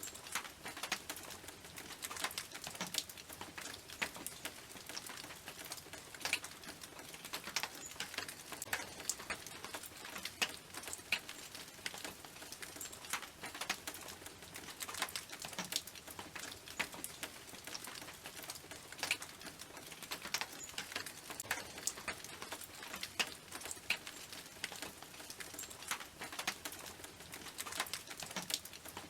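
Rain drumming on a tin roof: a dense, irregular patter of drops, each landing as a sharp metallic tick over a steady hiss of rainfall.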